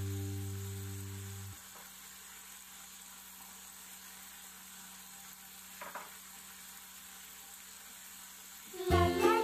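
Squid in chili-paste sauce sizzling quietly and steadily in a nonstick wok. A held music note fades out in the first second and a half, and music starts again near the end.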